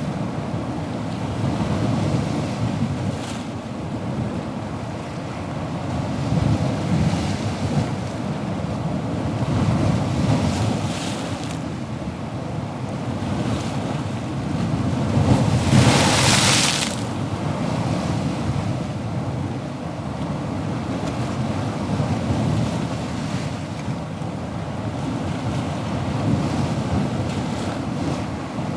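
Ocean waves washing in a steady low rush, with one louder wave breaking and hissing about halfway through.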